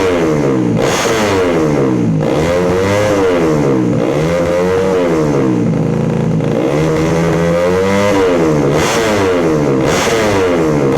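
Yamaha Jupiter Z motorcycle's tuned 125 cc single-cylinder four-stroke engine revved up and down repeatedly through an aftermarket racing exhaust (knalpot). The quick blips come near the start and the end, with slower, longer revs in the middle.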